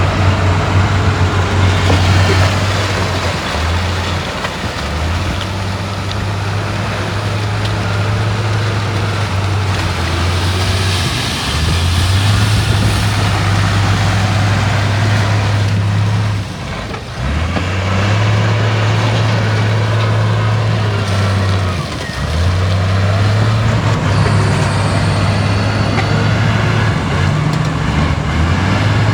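Heavy diesel engine of an earthmoving machine running loud, its low drone shifting up and down in pitch every five seconds or so, with two brief drops near the middle and later on.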